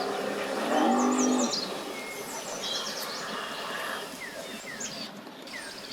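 A boat engine drones, swelling to a louder pitched tone for about a second near the start before easing off. Birds chirp throughout.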